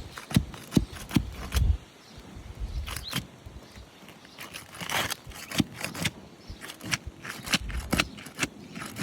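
Roof snake and asphalt shingles being worked loose: irregular metal clicks and scrapes as nails are pried out, with a couple of low thumps.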